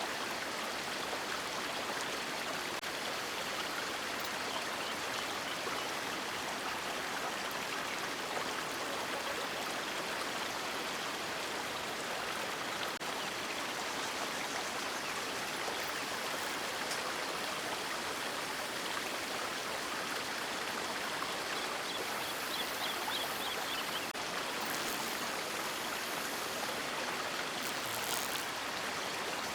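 River water rushing and splashing in a steady, unbroken stream of noise.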